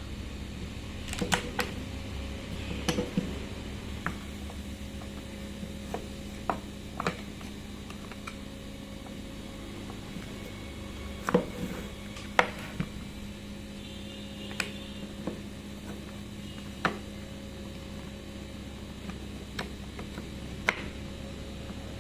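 Scattered light clicks and knocks of tools and parts being handled during a repair, about a dozen, irregularly spaced, over a steady hum.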